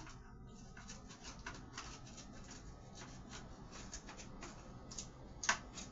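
Light handling noises of kitchen work: scattered small clicks and rubbing, with one sharper clack about five and a half seconds in.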